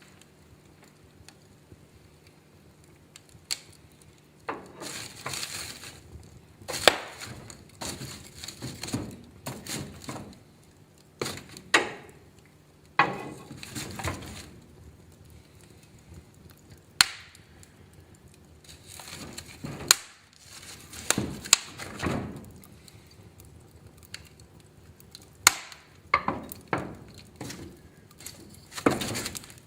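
Wood fire in a fireplace crackling, with irregular sharp pops and short hissing flare-ups that start about four seconds in.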